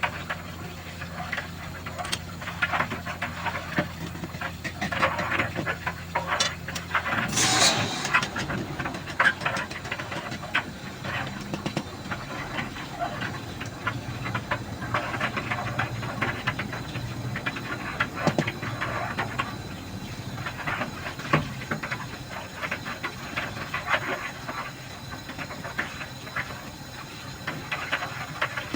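Hissing, rushing water with scattered knocks and clatter while a central water heater is being flushed. A low steady hum cuts off about seven seconds in, followed by a brief loud hiss.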